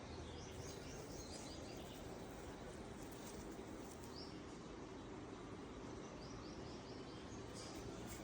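Steady outdoor background noise with birds chirping: a quick run of short high chirps about a second in, a single chirp around four seconds, and another run of chirps a little after six seconds.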